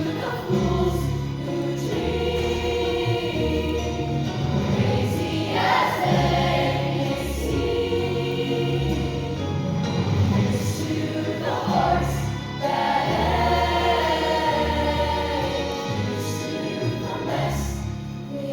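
A choir singing with instrumental accompaniment, over a steady low bass line whose notes change about once a second.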